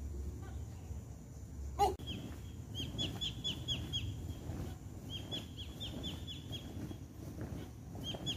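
A bird singing: phrases of short, high, falling chirps, about five a second, repeated three times. Just before two seconds in, a single sharp knock stands out as the loudest sound.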